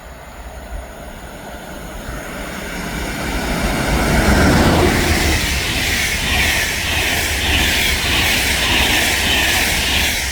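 Train passing at speed: a rumble that builds, a falling pitch as it goes by about four to five seconds in, then steady wheel and rail noise that cuts off suddenly at the end.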